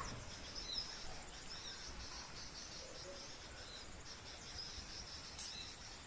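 Faint, high twittering of small wild birds, with a sharp click about five and a half seconds in.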